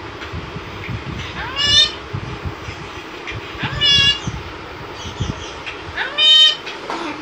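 Parrot giving three separate meow-like calls, each rising in pitch and lasting about half a second, spaced roughly two seconds apart.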